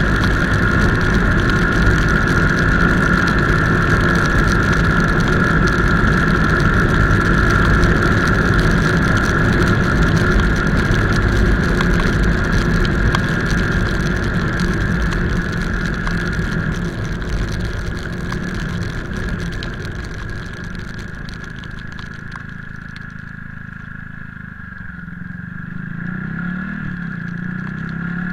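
Motorcycle running on the road, its engine rumble mixed with steady wind and road noise. The noise eases off about three-quarters of the way through, then the engine note rises again near the end as it speeds up.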